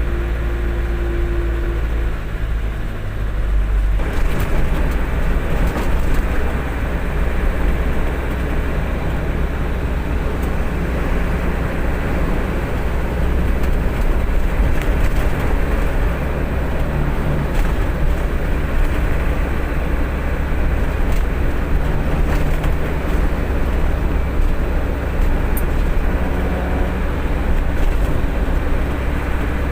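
Truck engine and road noise while driving: a steady low engine drone under an even rush of road and wind noise, rising a little about four seconds in.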